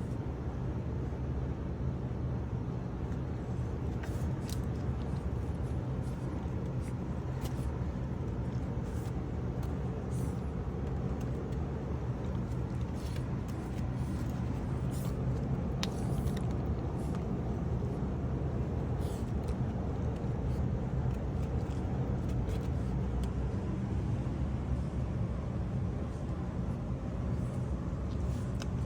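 A steady low rumble that holds at one level, with a few faint clicks and taps over it.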